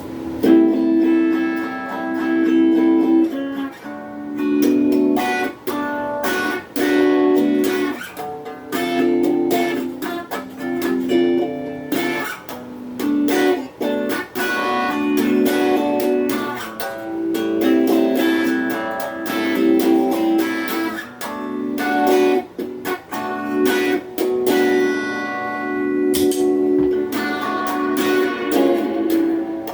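Donner Q1 HSS Strat-style electric guitar played clean through a small Cahaya practice amp with phaser and hall reverb pedals: strummed and picked chords changing every second or two, with short breaks between phrases.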